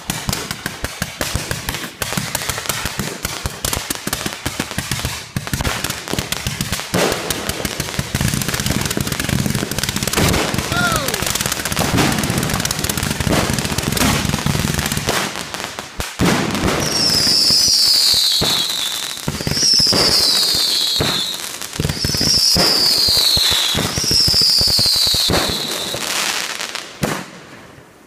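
Consumer fireworks going off close by: a dense, rapid run of crackling pops and bangs. Late on, four falling whistles sound about two and a half seconds apart over the crackle.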